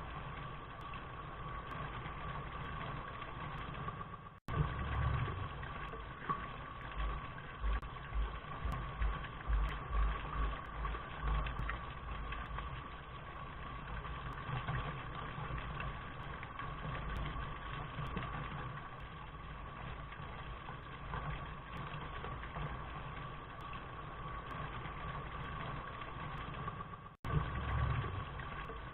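Steady rain noise with a low, uneven rumble underneath. It cuts out completely for an instant twice, about four seconds in and near the end.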